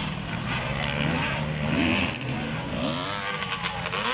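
Racing motorcycle engines revving up and down as bikes run around the track, with a few short clicks just past the three-second mark.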